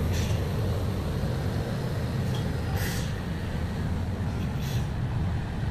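Heavy truck diesel engines labouring uphill with a steady low rumble. A few short hisses cut through it about three and five seconds in.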